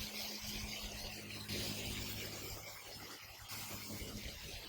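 Steady hiss of water rushing down a garden waterfall and stream, with a faint low hum underneath.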